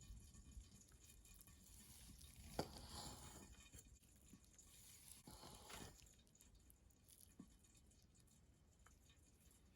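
Near silence with faint handling noise: a sharp click about two and a half seconds in and two brief rustles.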